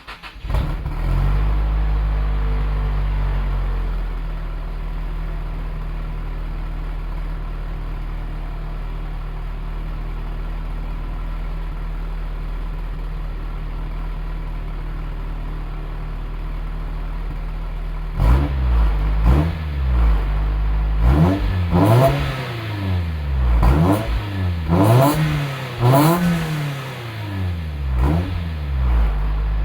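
Nissan S15 Silvia's naturally aspirated SR20DE four-cylinder engine heard through an HKS Silent Hi-Power muffler: it starts, runs a little fast for a few seconds, then settles to a steady idle. From about two-thirds of the way in it is revved in a string of about ten quick throttle blips, each rising and dropping back, then returns to idle.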